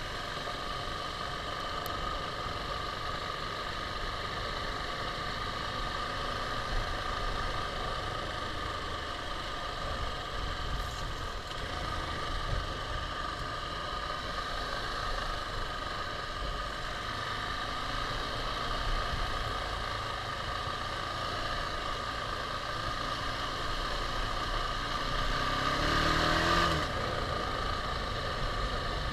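KTM 690 single-cylinder motorcycle engine running steadily while riding, mixed with rushing wind and road noise. Near the end the engine revs up briefly and is loudest there.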